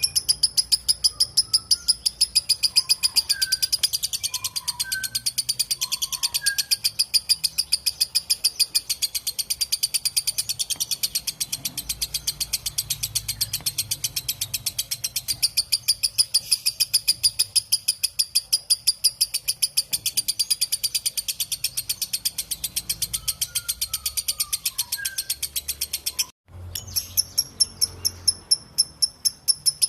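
Lovebird giving its long, unbroken 'ngekek' chatter: a fast, even string of shrill chirps, about four a second, cut by a brief gap near the end. A few faint lower chirps sound now and then behind it.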